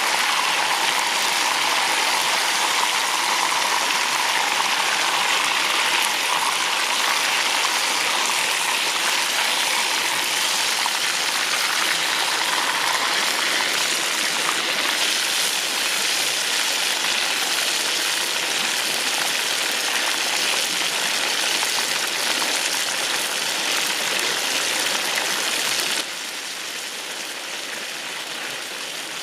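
Hot oil sizzling steadily around a whole chicken deep-frying in a pan, a dense rain-like hiss; the hiss thins about halfway through and drops suddenly to a quieter level near the end.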